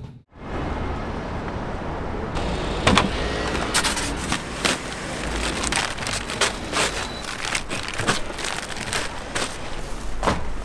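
Steady street noise, like road traffic, with a long string of sharp clicks and clacks.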